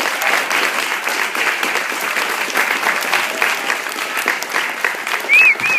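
Audience applauding, with two short whistles that rise and fall near the end.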